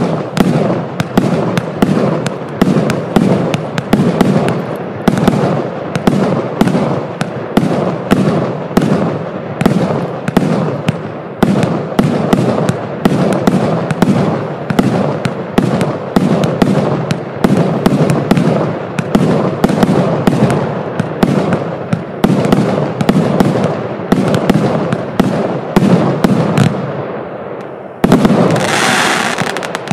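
A 100-shot consumer fireworks cake firing in rapid succession: a steady string of launch thumps and aerial bursts, several a second. About two seconds from the end it breaks into a louder hissing, crackling stretch.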